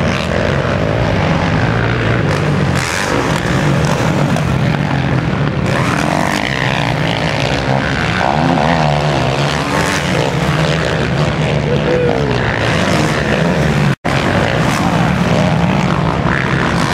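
Motocross dirt bikes racing, their engines revving up and down as they ride the course; the sound drops out for an instant near the end.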